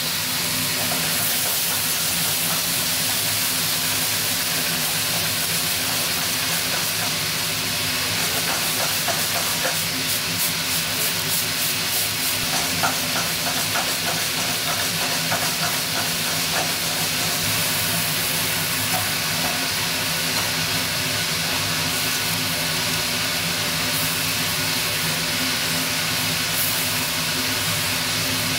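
Vegetables, seafood and noodles for Nagasaki champon sizzling and hissing steadily in a frying pan over a gas burner, over a steady low hum. Light clicks of chopsticks stirring the pan come in the middle part.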